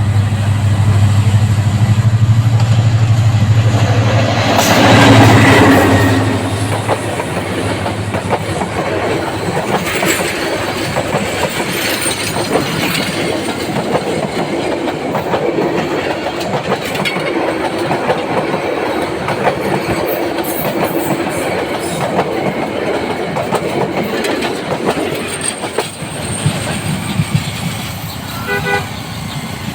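A diesel-hauled express train passing through a station at speed. The locomotive's engine hum is loudest about five seconds in, then the coaches roll by with a steady clickety-clack of wheels over rail joints.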